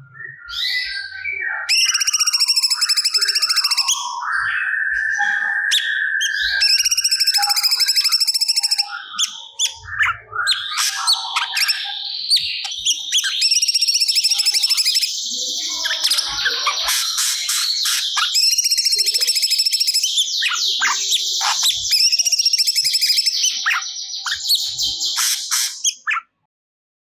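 Cucak cungkok singing loudly in full song: repeated phrases of rapid, high trilled notes about two seconds each, with a longer steady whistle early on and lower whistled notes between phrases. The song cuts off suddenly near the end.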